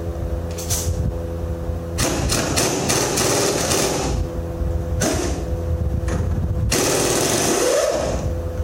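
Pneumatic air hammer rattling in three bursts, about two seconds, one second and one second long, as it works on a Mack truck's kingpin. An engine runs steadily underneath.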